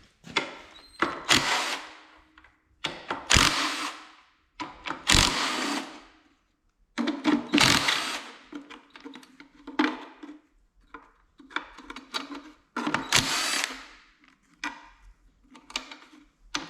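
Power drill-type tool running in repeated short bursts of a second or two each, spinning off the cylinder head bolts and nuts of a Kohler K241 single-cylinder engine.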